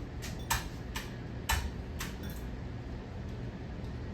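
52-inch ceiling fan running with a low steady hum and sharp clicks, about two a second in the first two and a half seconds, then stopping.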